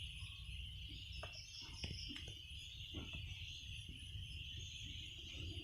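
Faint steady high-pitched hiss, with a few soft clicks and taps from handling a smartphone as it is fitted back together.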